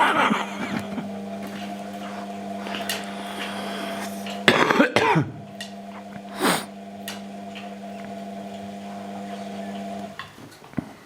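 Washing machine motor humming steadily with a drum turn, then stopping abruptly near the end. A few short, loud sounds break in over the hum, one of them gliding down in pitch.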